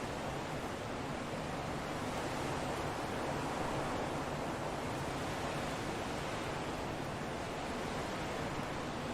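Steady wind, a continuous even rush that swells a little a few seconds in and eases again.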